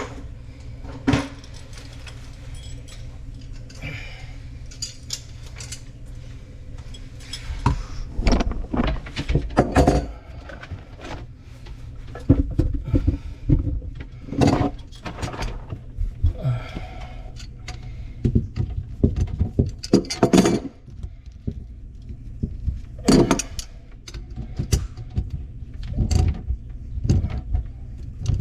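Repeated metallic clinks, knocks and rattles of plumbing tools and fittings being handled, busier from about eight seconds in, over a steady low hum.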